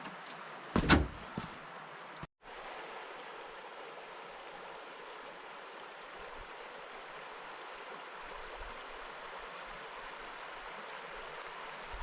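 Steady rushing of a flowing river. A single loud knock about a second in, and the sound cuts out for an instant a little after two seconds.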